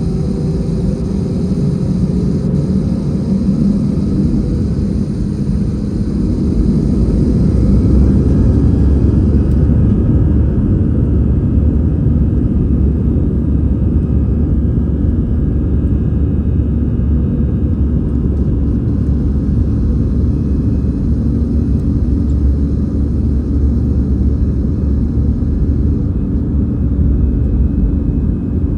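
Airbus A319 airliner's jet engines and airframe rumble, growing louder about six to eight seconds in and then holding a steady, heavy low rumble, as on the takeoff roll.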